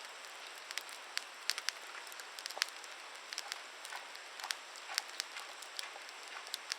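Wood campfire crackling, with irregular sharp pops and snaps several times a second over a steady hiss.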